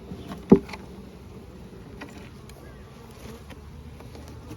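Honeybee colony buzzing steadily as its hive box is opened, with one sharp knock about half a second in.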